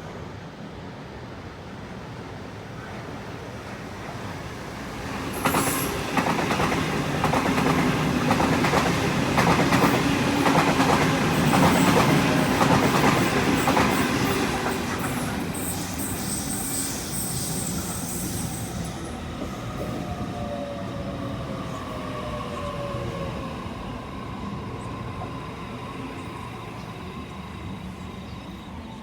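A train passing on the tracks, with a fast run of wheel clacks over the rail joints, loudest in the middle. A brief high wheel squeal follows, then the sound fades away with a whine that falls in pitch.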